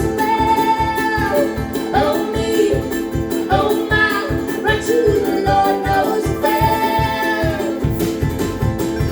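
Live bluegrass band playing a fast tune: banjo and guitar picking over a quick, steady bass beat, with long held melody notes on top.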